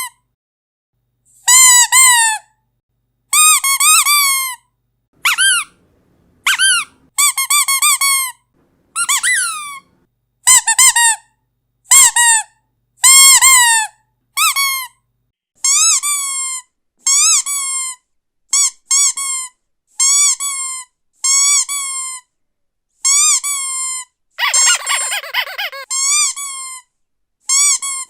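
Squeaky dog toy being squeezed over and over: short, high-pitched squeaks, often two in quick succession, with silent gaps between them. A longer, rougher squeak comes near the end.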